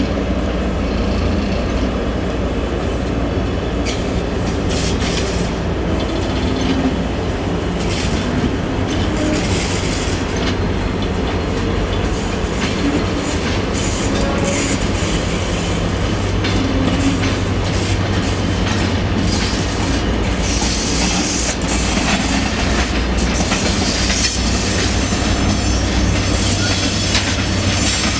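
Freight train hauled by a VL11.8 electric locomotive rolling past: a steady low rumble with the wheels clattering over rail joints, the clicks coming thicker as the wagons go by in the second half.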